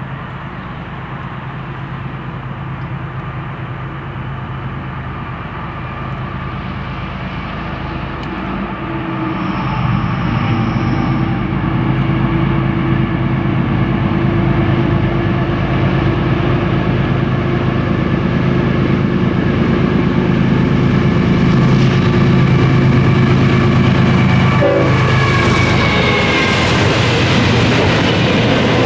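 Diesel locomotive of a double-stack container freight train approaching and passing, its engine drone growing louder about eight to fourteen seconds in. The container cars then roll steadily past on the rails.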